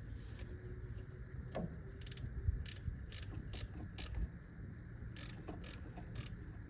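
Socket ratchet wrench clicking in short strokes as a 12mm bolt on the AC compressor mount is turned, a run of sharp clicks starting about two seconds in.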